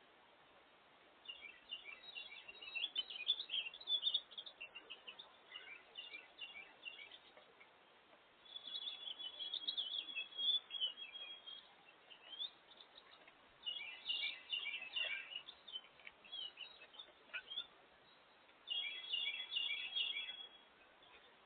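Small songbirds chirping in four bursts of quick, high notes a few seconds apart, with a faint steady outdoor hiss between them.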